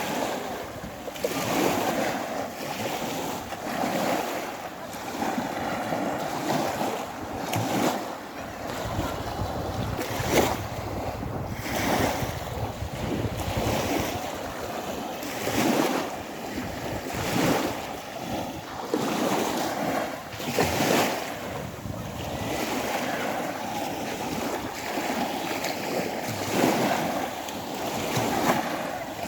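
Sea of Azov waves washing and breaking on the shore in repeated swishes every second or two, with wind buffeting the microphone.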